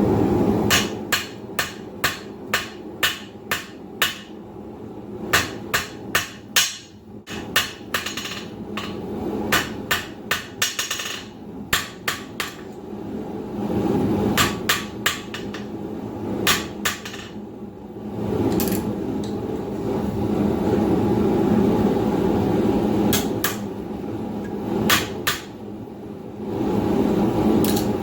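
Blacksmith's hand hammer striking a hot steel bar on an anvil in runs of quick blows, about two to three a second, as the stock is drawn into a reverse taper and squared up. Between the runs of blows a steady rushing roar, typical of the forge, fills the pauses.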